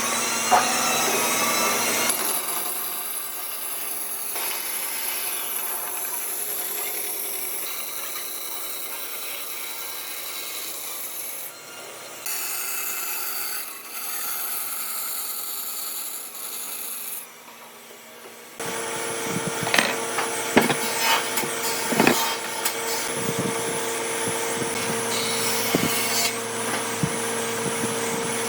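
Tools working wood across several cut-together shots: scraping and rasping strokes on wood, then, about two-thirds through, a steady machine hum with sharp knocks and taps.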